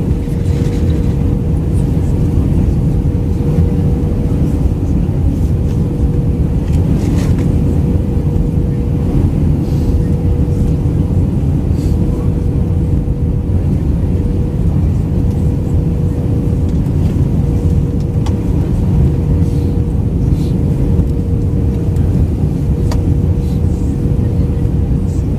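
Cabin noise of an Airbus A319-112 airliner in flight on descent: a loud, steady low roar of airflow and its CFM56 jet engines, with a steady hum running through it. A few faint brief clicks come and go.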